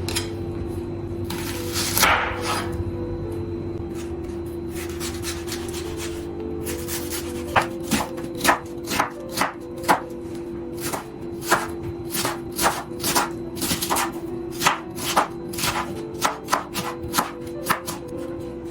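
Knife chopping food on a cutting board: quick, even cuts, two or three a second, starting about eight seconds in. Before that there is lighter scraping and rubbing, with one louder scrape about two seconds in.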